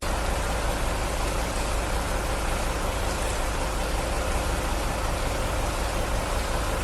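Steady motor vehicle noise: engine and road rumble with a faint steady hum, no impact.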